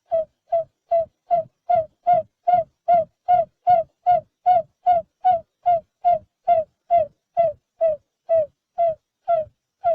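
Barred buttonquail giving a long series of short hooting notes, about two and a half a second, each dipping slightly in pitch.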